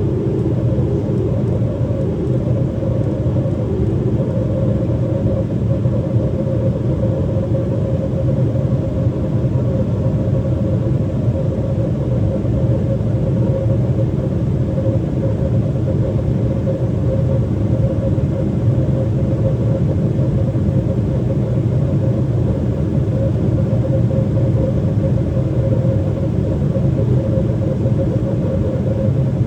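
Steady cabin noise inside a Boeing 777-300ER airliner during descent: a low, even rumble of airflow and engines with a constant mid-pitched hum on top.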